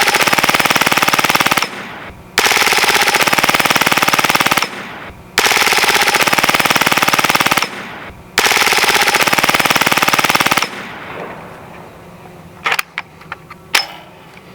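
Hatsan Blitz .30 calibre PCP air rifle firing on full auto: four long bursts of rapid shots, each about two seconds, with short breaks between them. A few light clicks follow near the end.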